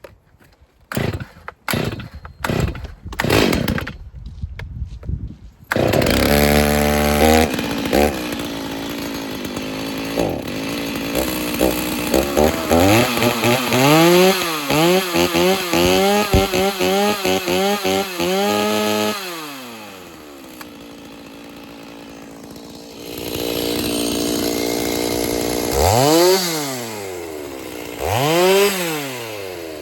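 A few sharp knocks, then a Stihl Farm Boss chainsaw (an MS-290 fitted with an MS-390 conversion kit) running, its engine revving up and down again and again, settling lower for a few seconds past the middle, then revving again near the end.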